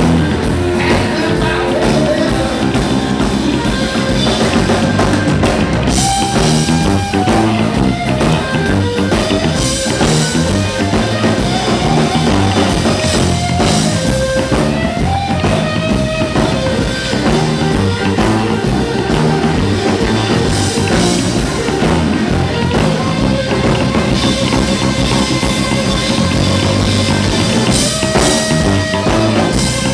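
Live blues-rock band playing an instrumental passage: drum kit and bass keeping a steady beat under a lead guitar line with held and bent notes.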